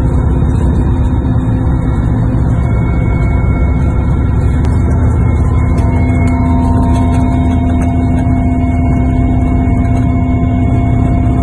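Helicopter running: a loud, steady low drone with high steady whining tones laid over it.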